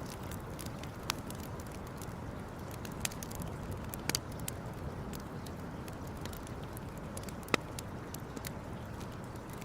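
Campfire crackling, with scattered sharp pops over a steady low rush, the loudest pop about seven and a half seconds in.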